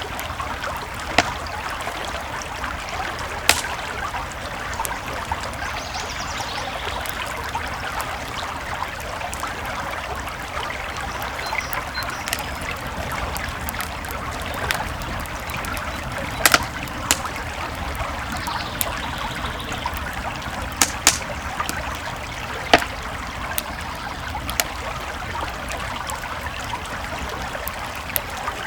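Creek water flowing steadily, with sharp pops from a wood campfire every few seconds, a cluster of them in the middle and near two-thirds of the way.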